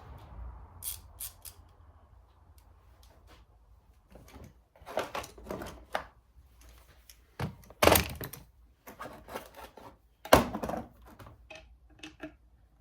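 Hand tools and engine parts knocking and clicking against each other and a work surface during an engine teardown, a scatter of separate sharp knocks with the loudest two about eight and ten seconds in.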